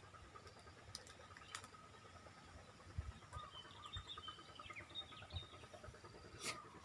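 Faint, quiet outdoor ambience with brief high bird twittering near the middle, a few sharp clicks and some low bumps.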